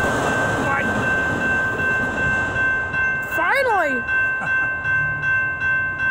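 Autorack freight cars rushing past a railroad crossing, the noise dying away about two and a half seconds in as the end of the train clears; the crossing bell keeps ringing, about two strokes a second. A short high call rises and falls a little past the middle.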